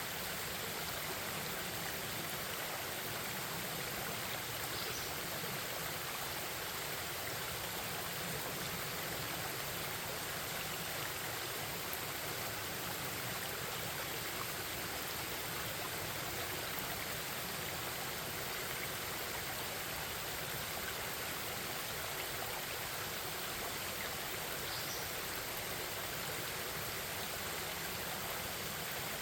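Forest stream babbling steadily over rocks. Two faint, brief high chirps from a bird come through, about five seconds in and near the end.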